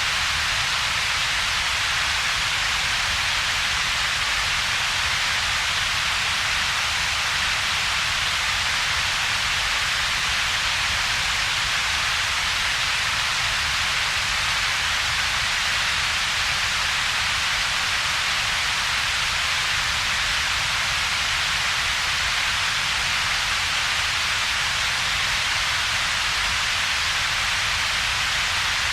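Synthetic double-peaked noise: an even, unchanging hiss strongest in the upper middle range, with a weaker low rumble beneath and little in between.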